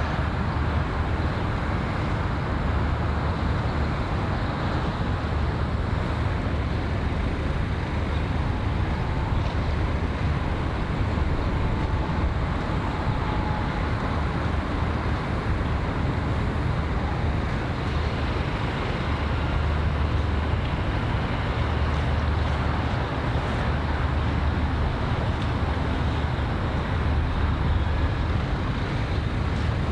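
Steady low rumble under an even hiss of outdoor background noise, unchanging throughout.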